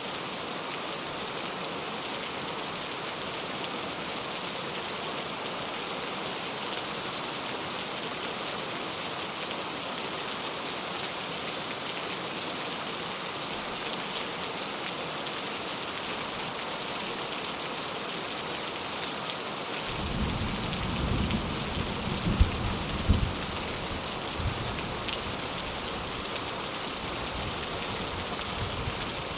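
Steady rain falling, an even hiss. About two-thirds of the way through, a deep rumble of thunder rolls in, with two sharper claps in the middle of it.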